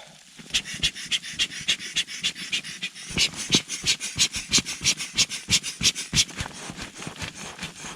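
Air mattress being inflated with its air pump: quick, even puffs of air, about four a second.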